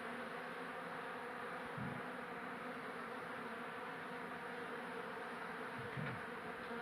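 Honeybee colony buzzing steadily, the dense hum of many bees flying around an opened hive. Two brief louder hums rise out of it, about two seconds in and near the end.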